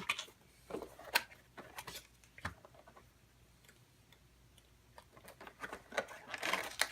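Cardboard box and packaging of a CPU heatsink being opened and handled: scattered light clicks and taps, a quiet stretch, then a quicker run of clicks and crinkles near the end.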